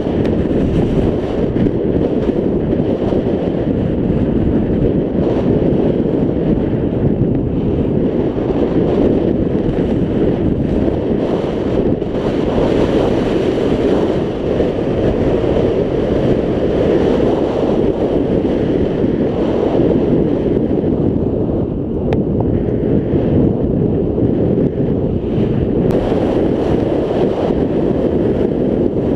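Wind buffeting the microphone of a helmet-mounted GoPro on a moving scooter: a steady, loud, low rush.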